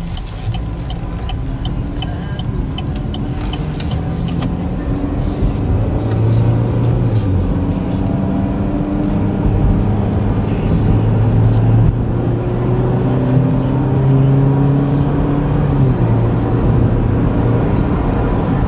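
Cabin sound of a 2013 Chevy Equinox's 2.4-litre four-cylinder engine and tyres at highway speed: a steady engine drone over road noise, the engine note climbing gradually. A light regular ticking sounds in the first few seconds.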